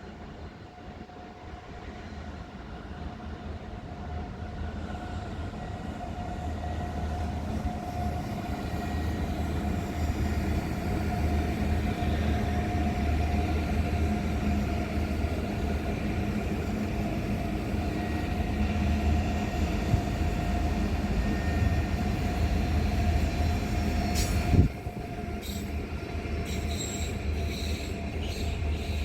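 A train running past, growing louder over the first several seconds, with a steady high whine over a low rumble. The sound drops suddenly near the end, followed by a few sharp clicks.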